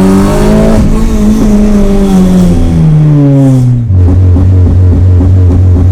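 Loud Honda Civic Type R K20 four-cylinder engine driving: its pitch falls steadily for about three seconds as the revs drop, there is a short break just before four seconds in, and then it holds a steady, lower drone.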